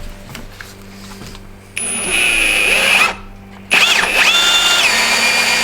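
Cordless drill run in two bursts, about a second and two seconds long. Its motor whine rises in pitch as it spins up and drops as it takes load in the second burst.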